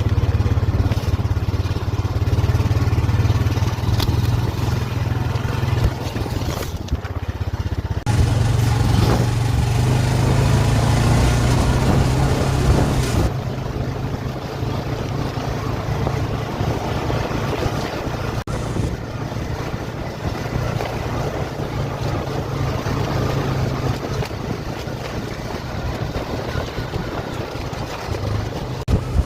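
A motor vehicle running steadily with a low drone. About 13 seconds in the drone weakens and a steady hiss takes over.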